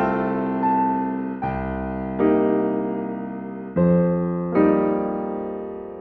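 Slow, gentle piano music: soft chords struck every second or so, each ringing and fading before the next.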